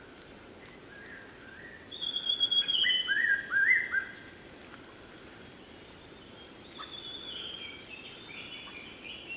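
Wild birds calling: a burst of clear whistled notes about two seconds in, some stepping down in pitch and some short upswept ones, then softer calls again near the end, over a faint steady hiss.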